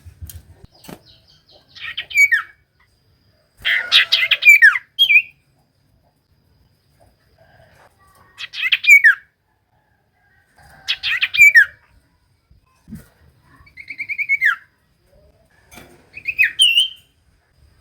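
Common iora singing: about six short, loud phrases of rapid chirps sliding downward in pitch, each under about a second and a half, with pauses of two to three seconds between them.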